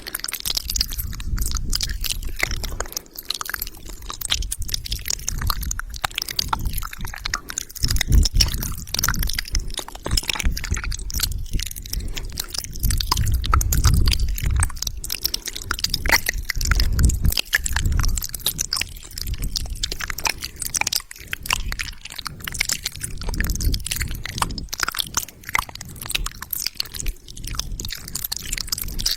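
Close-miked wet mouth sounds: rapid lip smacks, tongue clicks and squishing spit noises, with soft low thumps here and there.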